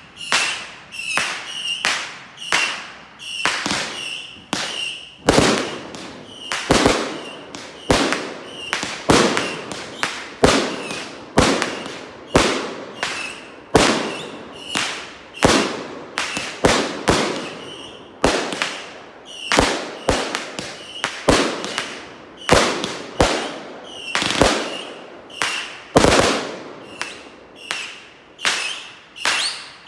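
Backyard consumer fireworks going off: a rapid series of sharp bangs, more than one a second, each ringing out briefly.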